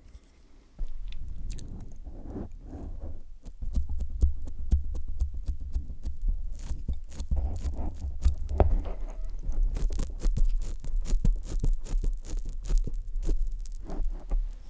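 Close-up wet mouth sounds on a microphone: rapid licking and clicking, with low thumps of the mic being touched. Quiet for the first second, then dense and busy until just before the end.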